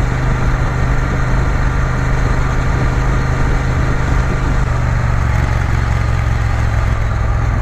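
Triumph Bonneville T120's parallel-twin engine running steadily on the move, with wind noise over it.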